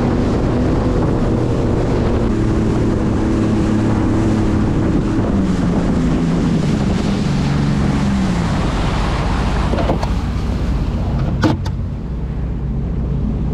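Sea-Doo jet ski engine running under way, with the rush of wind and water. The engine note falls about halfway through, and in the last few seconds the rushing noise fades, with a couple of sharp clicks.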